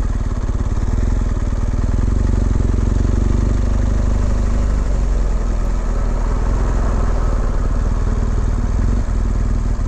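BMW R1200GS motorcycle's boxer-twin engine running steadily at low speed, with no sharp changes.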